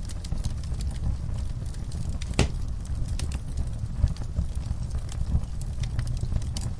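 Wood fire crackling, with many small sharp pops over a steady low rumble of the flames; one louder pop about a third of the way in.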